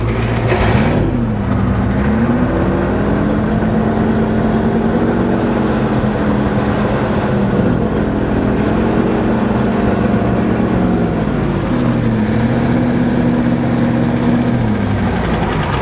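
Old Ford truck engine revved up and held at raised speed several times, dropping back between revs. It is short of power and misfiring, which the owner notices.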